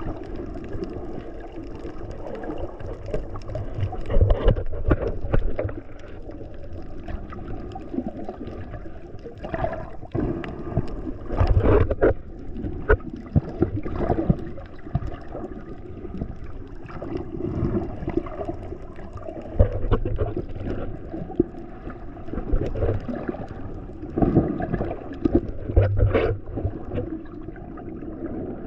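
Sea water sloshing and gurgling around the camera, muffled, rising and falling in irregular swells, several louder surges along the way.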